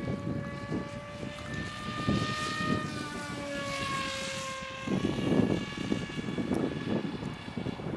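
Electric motor and propeller of a Dynam Hawk Sky RC motor glider whining as the plane passes, its pitch sagging before the sound cuts off about five seconds in. Wind buffeting on the microphone follows.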